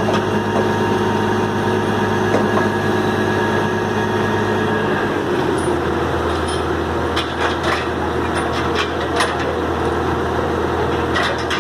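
Heavy truck engine running steadily, its note shifting about five seconds in, with scattered sharp clicks and knocks over the second half.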